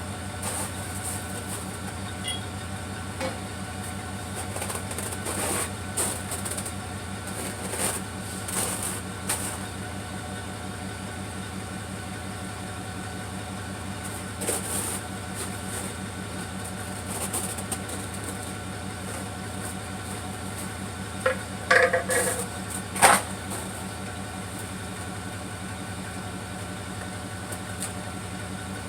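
1974 Plymouth Duster's slant-six engine running steadily at idle just after a cold start, with an even rapid pulse. A couple of sharp knocks come about two-thirds of the way through.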